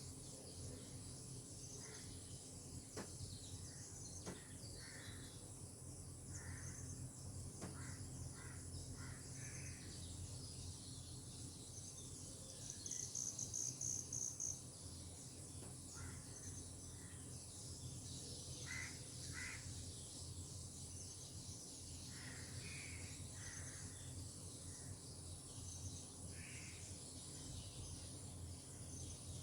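Tropical outdoor ambience: scattered short bird calls over a steady, high insect drone, with a burst of rapid high chirps lasting about a second and a half a little before the middle.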